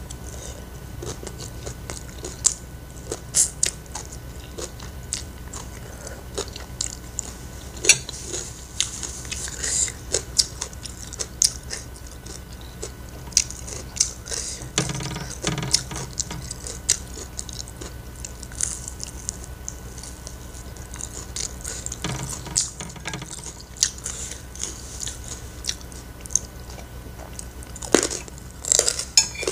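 Close-up chewing of food (stir-fried greens, fried rice and fried chicken): wet mouth clicks and crunches come every second or so over a steady low hum. Near the end a spoon clinks several times against a ceramic plate.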